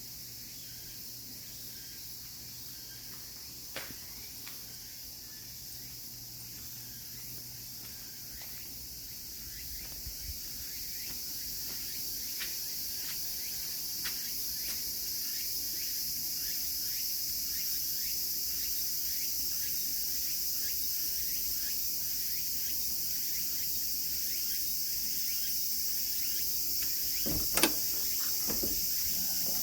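Steady high-pitched chorus of summer insects, growing slightly louder partway through. A few short knocks or clicks cut through it, the loudest a double knock near the end.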